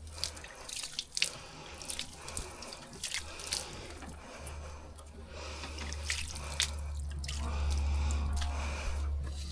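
Milk squirting in short, irregular spurts as a water buffalo is milked by hand. A low steady rumble underneath grows louder from about halfway.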